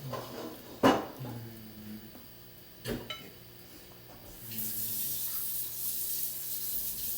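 Mealtime kitchen noise: a sharp knock about a second in, a smaller one near three seconds, then a steady hiss from about four and a half seconds on.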